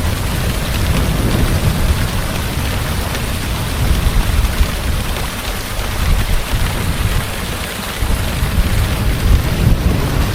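Heavy rain falling steadily, with a deep rumble of thunder rolling underneath that swells and fades.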